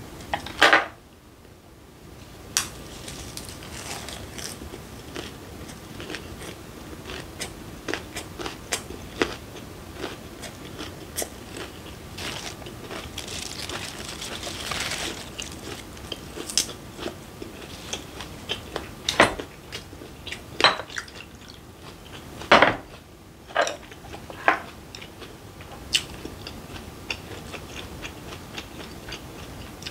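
Close-miked chewing and crunching of raw fish wrapped in lettuce, including bone-in sliced gizzard shad (sekkoshi), with many short wet clicks and crunches. Leaves rustle briefly around the middle.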